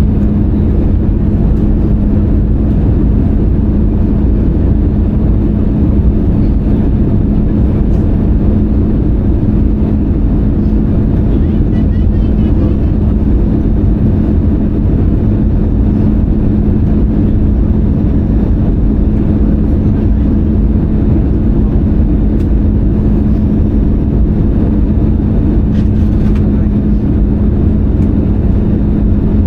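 Airbus A320-200 cabin noise in flight: a steady, even rush of engine and airflow noise with a constant low hum.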